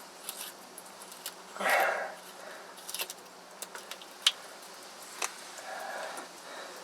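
Handling noise: scattered light clicks and taps, with a short rustle about two seconds in.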